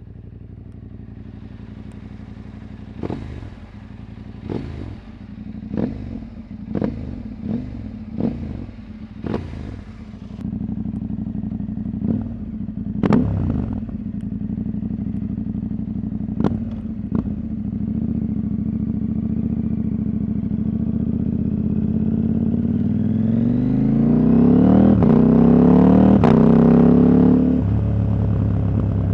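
Husqvarna Norden 901's parallel-twin engine, its catalytic converter removed, running at low revs with a string of short sharp knocks and brief throttle blips. Near the end it revs steadily higher for about five seconds under acceleration, then the revs fall suddenly.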